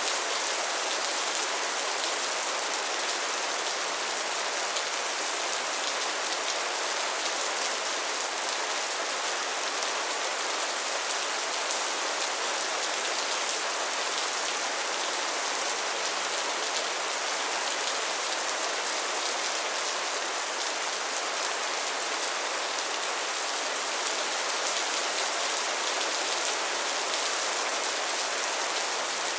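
Steady rainfall, an even hiss of many drops landing on a surface.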